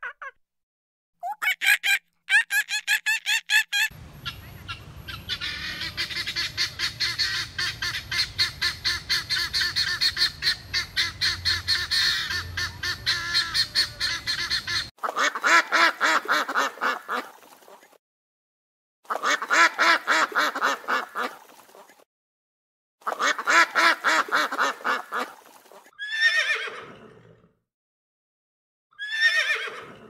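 Animal calls in several bouts of rapid, repeated bird-like calls, the longest lasting about ten seconds. Near the end come two shorter calls that fall in pitch.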